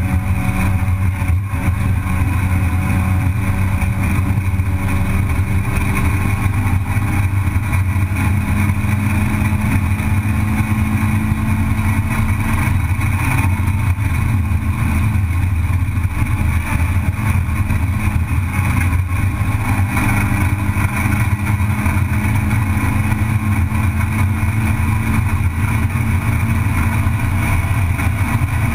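Race car's engine heard from inside the cockpit, running hard in a steady, loud drone with slow small shifts in pitch, mixed with road and wind noise.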